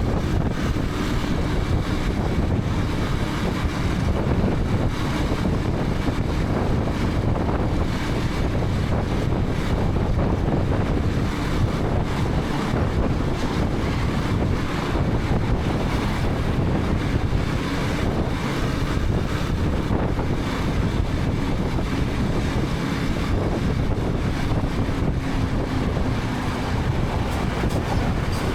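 Wind rushing over a helmet-mounted camera microphone while riding a KTM 250 Adventure at a steady speed, with the bike's single-cylinder engine humming steadily underneath.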